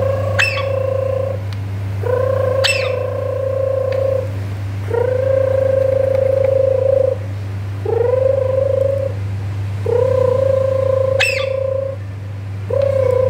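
Phone ringing: a repeated ringtone of long held notes on one pitch, each one to two seconds with short gaps, each sliding up slightly as it starts. Four brief high chirps falling sharply in pitch cut in over it, with a steady low hum underneath.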